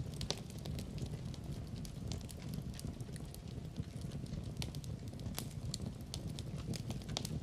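Wood fire burning with a steady low rumble and frequent irregular pops and crackles.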